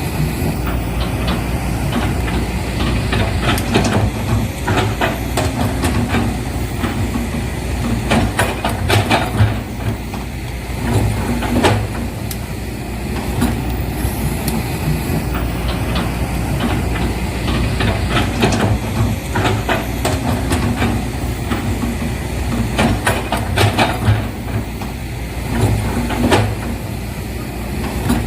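Steady engine rumble of a vehicle, with scattered clanks and knocks; the same stretch of sound repeats about every 14 seconds, like a looped track.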